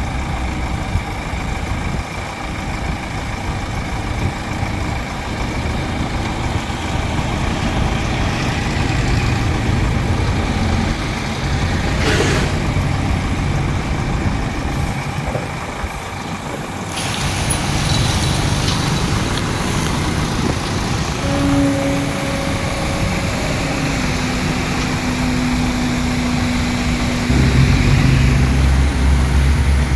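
Heavy diesel engines of a bulldozer and dump truck working, with a steady low rumble. There is a brief hiss about twelve seconds in, and the engine grows louder near the end.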